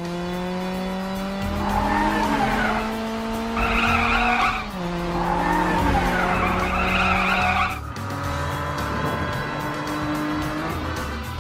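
Cartoon car engine sound effect: a steady engine hum that climbs slowly in pitch, drops and climbs again twice, with tyre squeals over it.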